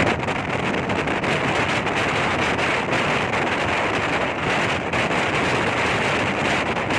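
Steady rush of a moving passenger train heard from on board, with wind buffeting the microphone.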